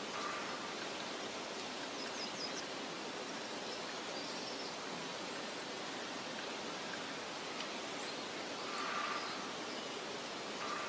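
Steady outdoor meadow ambience: an even hiss of soft wind, with a few faint, high bird chirps in a quick cluster about two seconds in and again near the middle. A brief swell of sound comes about nine seconds in.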